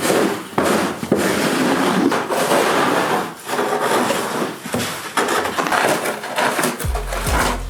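Snow shovel digging and scraping through snow in repeated strokes.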